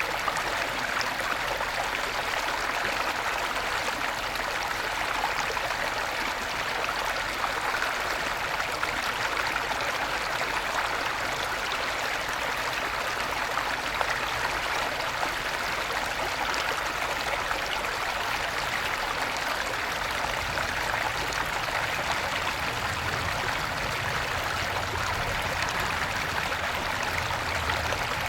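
A small stream babbling steadily after rain, an even rush of running water with no let-up.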